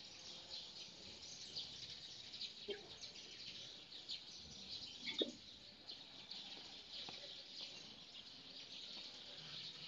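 Faint chirping of small birds: many short, high calls scattered throughout, with two soft knocks about three and five seconds in.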